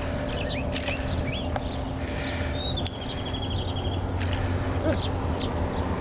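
Birds chirping, many short rising calls, with a rapid trill of quick repeated notes about halfway through, over a steady low rumble.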